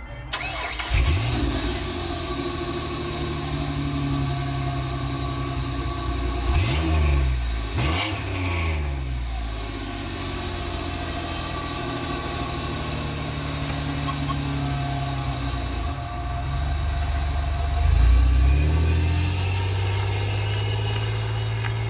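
Car engine idling and revving: the pitch climbs and falls back about a second in, twice around seven to eight seconds in, and once more near the end, settling to a steady idle in between.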